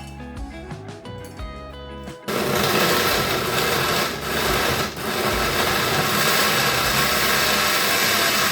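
Electric kitchen appliance motor, blender-type, switched on about two seconds in and running loudly at high speed, with two brief dips in the middle.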